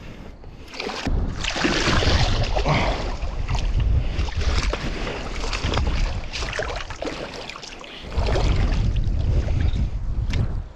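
Shallow water splashing and sloshing, with wind rumbling on the microphone, in two long stretches with a brief lull about two-thirds of the way through.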